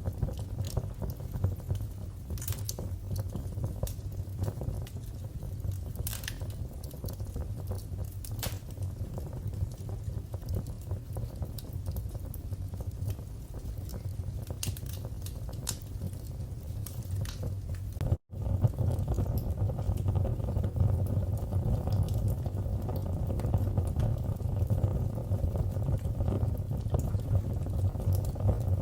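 Wood fire crackling in a fireplace: a steady low rumble of flames with scattered sharp pops and snaps. About two-thirds of the way through the sound drops out for a split second, then comes back a little louder and denser.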